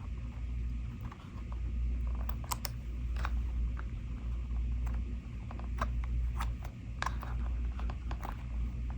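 Scattered small clicks and taps of die-cut cardstock pieces being handled and pressed into place on a work surface, over a steady low hum.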